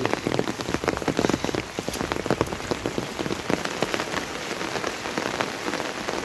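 Rain falling steadily, a dense patter of individual drops striking close by.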